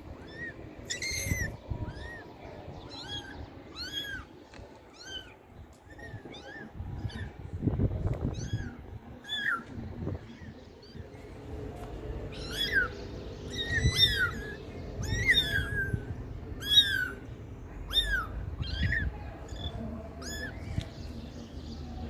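Kittens mewing, one short high-pitched mew after another, coming thicker and louder about halfway through.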